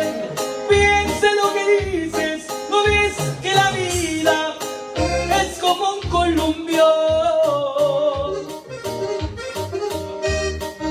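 Live band playing Mexican regional music: an accordion-led instrumental passage over a steady bass and drum beat.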